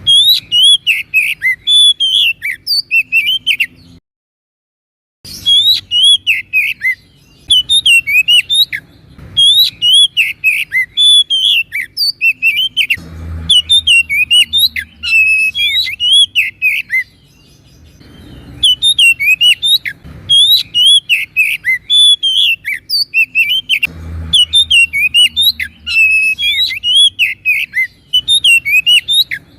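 Oriental magpie-robin (kacer) singing in full voice: long runs of rapid, varied whistled and chattering phrases with short pauses between runs. The sound cuts out completely for about a second a few seconds in.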